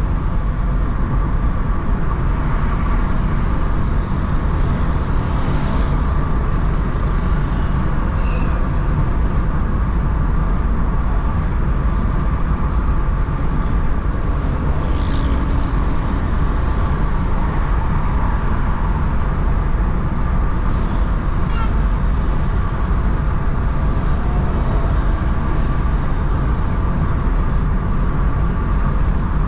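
Steady noise of a car driving in road traffic: a continuous low rumble of engine and tyres on the road, with a few faint short sounds from surrounding traffic.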